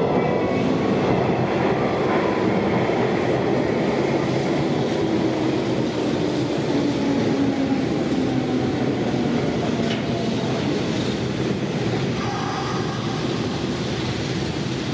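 Hanshin 8000 series electric train pulling into a station platform: steady wheel and rail rumble with clickety-clack, and a motor whine that falls in pitch as the train slows.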